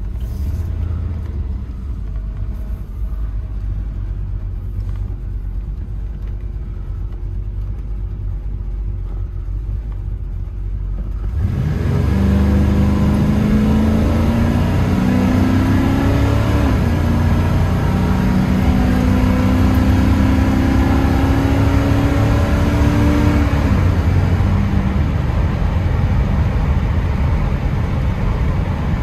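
Chevy Blueprint 400 small-block V8 with a Dynomax/Vibrant exhaust, in a 1979 K10 pickup, running with a steady low rumble. About eleven seconds in it opens up under hard acceleration: the revs climb, fall back at an upshift of the Turbo 350 automatic, climb again and fall at a second shift, then settle into a steady drone. The owner thinks the transmission, still on its stock shift points, is shifting a little early.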